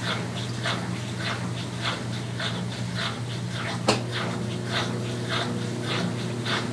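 Brastemp Tira Manchas Pro 12 kg washing machine running mid-programme: a steady motor hum under a rhythmic swish about every 0.6 s, with one sharp click about 4 s in, after which a further steady tone joins the hum.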